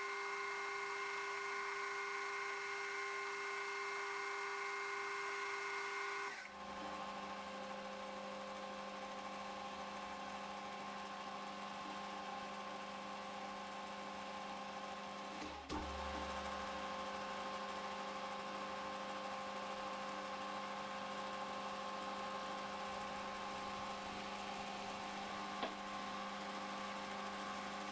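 Metal lathe running steadily with a machine hum while turning a Delrin pulley. Its tone changes abruptly about six seconds in, and there is a brief knock about halfway through.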